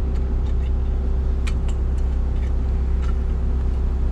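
Motor vehicle engine running steadily with a low, even drone, with a few faint clicks.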